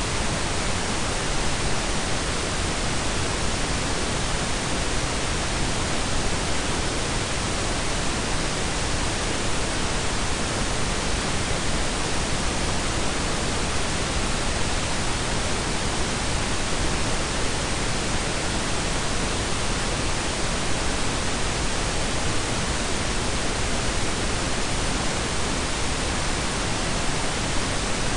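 Steady synthetic blend of pink and brown noise: an even, unchanging hiss with a deep rumbling low end, no tones or events.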